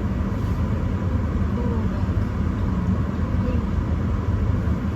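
Steady low rumble and hiss inside a car's cabin, with the heater running.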